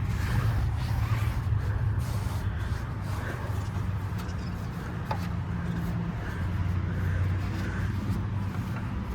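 A towel rubbing over a car wheel, wiping off tire cleaner, over a steady low hum.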